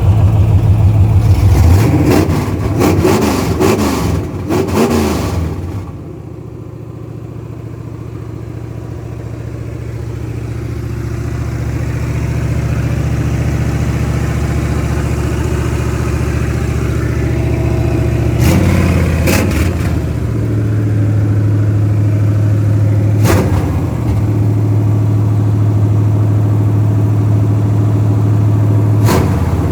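Rebuilt Chevrolet 350 small-block V8 running just after its rebuild. It is revved several times in the first few seconds, then settles to a steady idle, with a few short blips later on.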